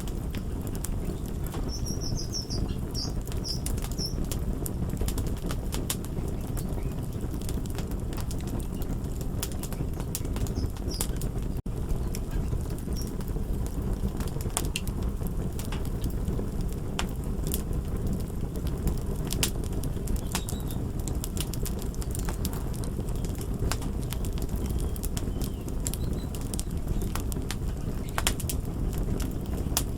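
Crackling fire: a steady low rumble of burning, broken by frequent sharp crackles and pops at irregular intervals. A few faint high bird chirps come through about two to four seconds in.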